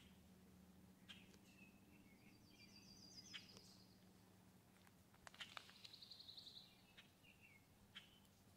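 Faint outdoor birdsong: two short, high, rapid trills and a few brief chirps, over a low steady hum.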